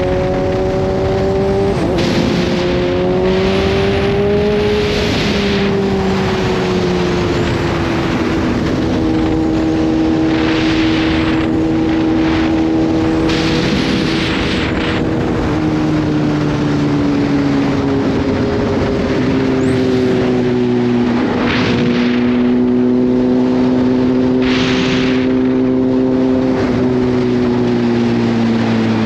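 Kawasaki Z H2's supercharged inline-four engine running at a steady, easy cruise, its pitch drifting slowly up and down, with several rushing hisses coming and going over it.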